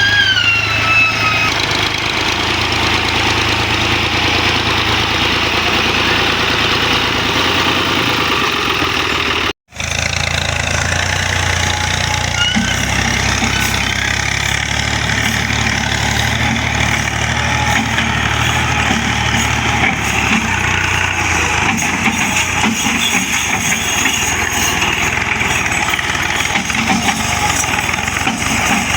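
Tractor diesel engine running steadily, with a short falling tone in the first second. The sound drops out for an instant about ten seconds in, then the engine carries on.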